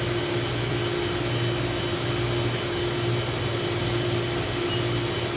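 Steady mechanical hum with an even airy hiss, as from a motor-driven fan or air unit running without a break. It holds a low hum and a thin higher tone.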